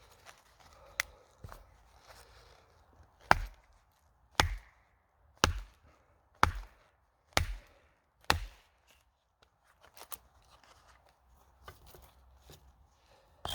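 Wood being chopped: six sharp strikes with a dull thud, about one a second, then lighter knocks and handling.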